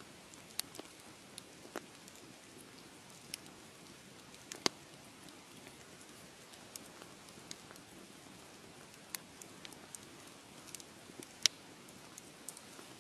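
Wood fire crackling: a soft steady hiss with irregular sharp pops, the loudest about a third of the way in and again near the end.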